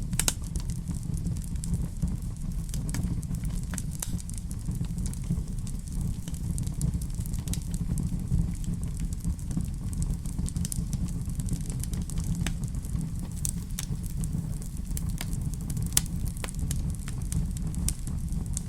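Wood fire burning in a fireplace: a steady low rumble of the flames with scattered sharp crackles and pops, a louder pop about 16 seconds in.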